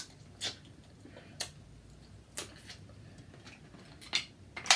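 Snow crab leg shells cracking and snapping as they are broken open by hand, about six sharp cracks spread over a few seconds.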